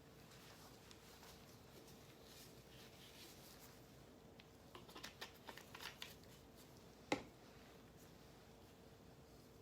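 Faint handling of a liquid medicine bottle and its cap: a run of small clicks and rattles about five seconds in, then one sharper tap a second later, over a faint steady hum.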